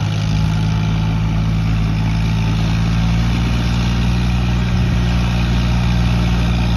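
Tractor diesel engine running steadily at idle, a loud, even low hum with no change in speed.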